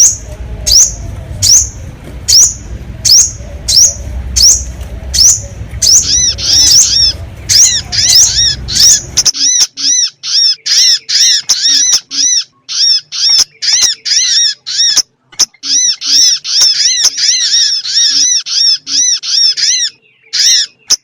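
Sogon bird lure call: short, high, sharp calls repeated over and over. They come about one a second at first, then faster in dense runs. A low rumbling background runs under the first nine seconds and cuts off abruptly, after which the calls sound clean.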